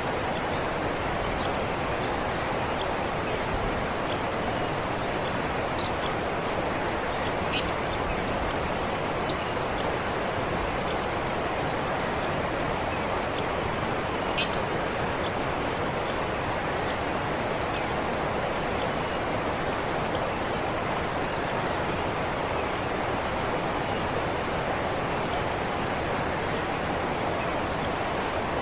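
Gentle forest stream flowing steadily, with small birds giving short, high, falling chirps in little groups every second or two.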